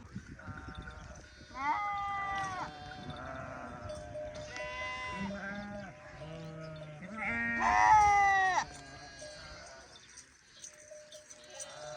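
Sheep or goats bleating: a series of wavering bleats, several animals calling, the loudest about eight seconds in.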